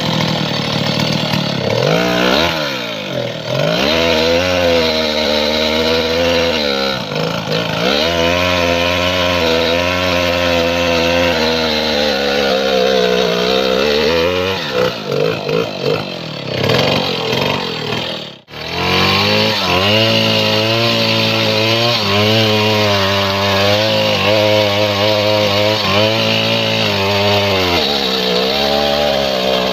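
Stihl 070 two-stroke chainsaw running at high revs while cutting mahogany, its pitch falling and rising several times. About two-thirds of the way through the sound stutters and briefly almost cuts out, then the saw runs on steadily.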